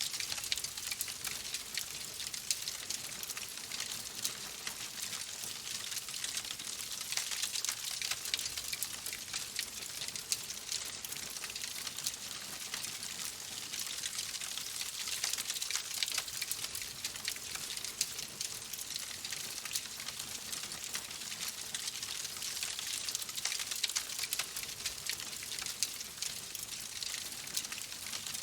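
Fire crackling in a fireplace: a steady hiss dense with many small, quick pops and snaps.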